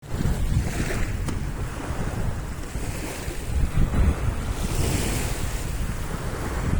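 Strong sea wind buffeting the microphone over choppy waves washing, with two louder surges of hissing wash, about a second in and again near the five-second mark.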